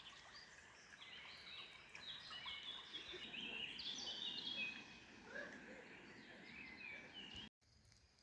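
Songbirds singing, many short overlapping chirping phrases, fairly faint. The sound cuts off abruptly shortly before the end, leaving a quieter background.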